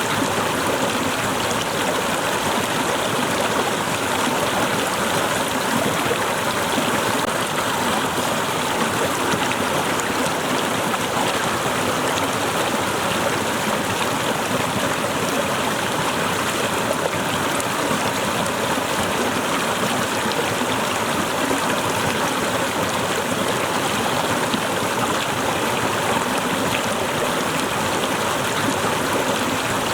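Small waterfall with water splashing and rushing steadily, with a splashing trickle on top.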